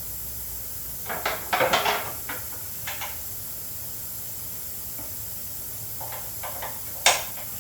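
Metal clanks and scrapes from a zero-turn mower's steel cutting deck being lifted and worked onto its hanger clips: a burst of clattering scrapes about a second in, a few scattered knocks, and one sharp knock near the end, over a steady hiss.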